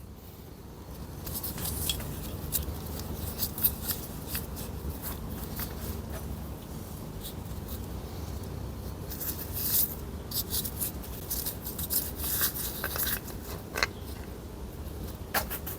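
Scattered light clicks and scrapes of hand work on gearbox parts, over a low steady hum.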